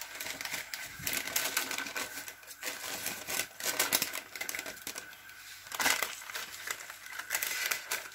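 Chicken chappal kebab patty frying in shallow oil in a pan, crackling and sputtering with irregular rapid clicks. Near the end, baking paper rustles as the next patty is laid into the pan.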